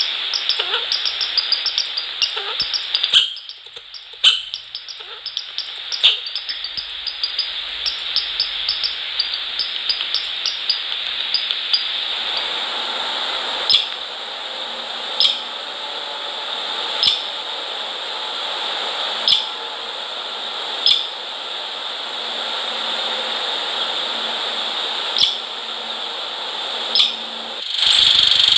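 Birds at a seed feeder: quick light pecking taps and scratches for about twelve seconds, then only a single tap every second or two over a steady hiss from the webcam microphone.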